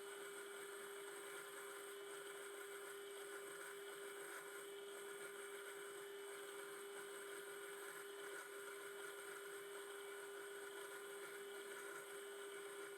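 Small metal lathe running at a steady speed, with a constant whine from its motor and drive.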